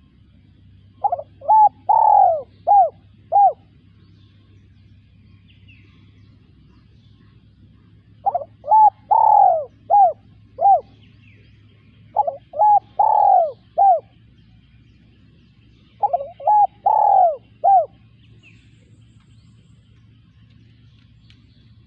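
Spotted dove cooing: four phrases of about five rounded coos each, a few seconds apart.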